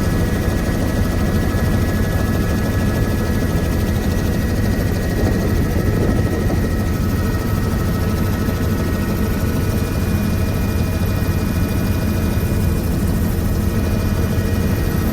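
Helicopter running in flight: a steady, loud rotor and engine rumble with a constant high whine over it.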